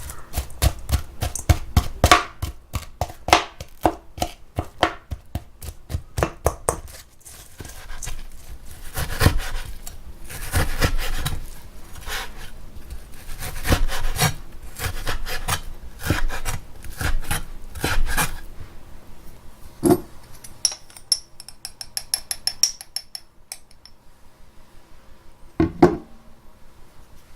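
Kitchen food preparation: a knife striking a wooden cutting board in a quick run of uneven strokes, mixed with stretches of scraping and rubbing.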